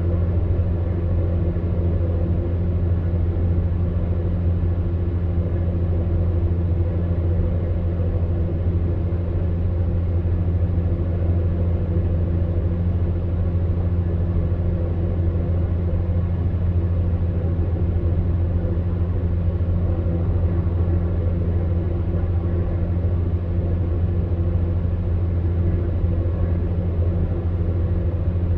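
Electric fan heater running: a steady low hum with an even rush of blown air, unchanging throughout.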